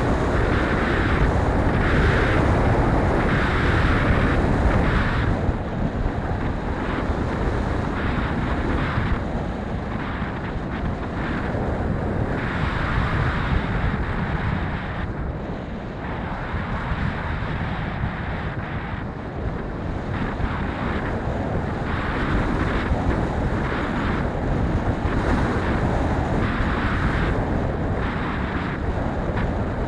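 Strong wind buffeting the microphone, a dense rumbling rush that swells and eases in gusts.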